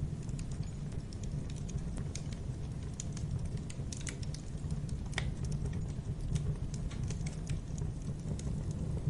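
Wood fire in a fireplace crackling, with irregular sharp pops over a steady low rumble; one pop stands out about five seconds in.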